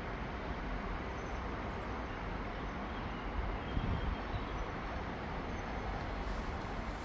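Freight train passing with a steady rolling rumble, and a brighter hiss coming in near the end.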